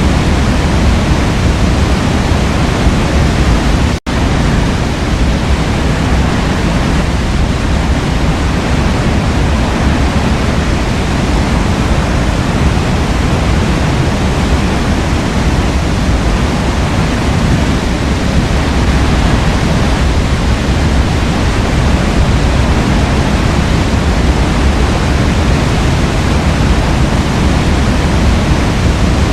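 Waterfall pouring steadily, a dense full rush of falling water, heavy in the low end. It cuts out for a split second about four seconds in.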